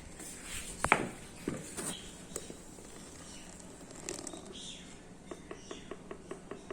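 Kitchen handling noises: a few sharp knocks, the loudest about a second in, then a quick run of light clicks near the end.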